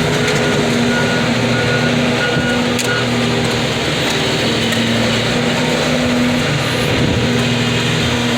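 Heavy engine running steadily at a constant speed, with an even hum throughout.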